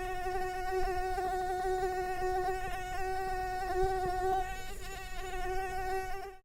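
A flying insect buzzing, a steady high-pitched whine that wavers slightly, cut off abruptly at the end.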